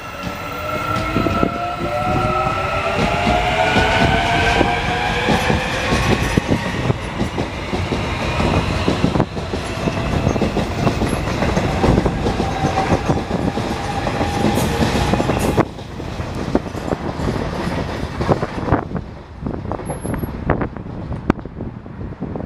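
Line 4 subway electric train accelerating along the platform: its traction motor whine rises steadily in pitch over several seconds, over a constant rattle and clatter of wheels on rail. About sixteen seconds in the sound drops suddenly and thins to a rumble.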